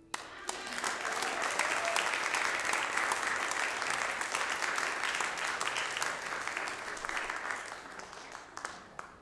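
Congregation applauding, starting suddenly and dying away over the last few seconds.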